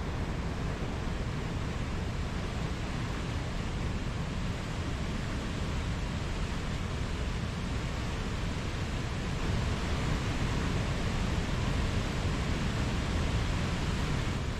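Mountain stream water rushing and burbling in a steady, unbroken wash, slightly louder near the end.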